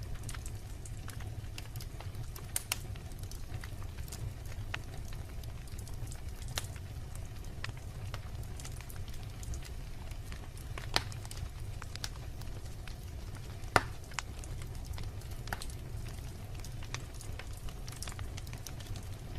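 Wood fire in a fireplace: logs burning with a steady low rumble and scattered sharp crackles and pops, two louder pops about 11 and 14 seconds in.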